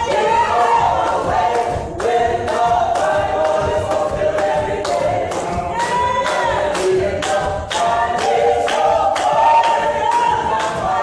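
A gospel choir singing a cappella in full harmony, over a steady beat of sharp strikes about twice a second.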